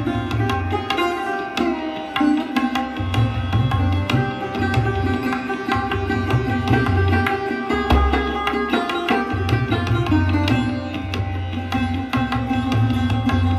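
Sarod being played: a run of quick plucked notes over a steady drone, with low hand-drum strokes underneath.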